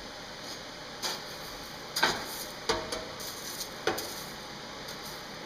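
Steel clanking in a blacksmith's shop: about five separate metal strikes, roughly a second apart, one leaving a short ring, over a steady hiss.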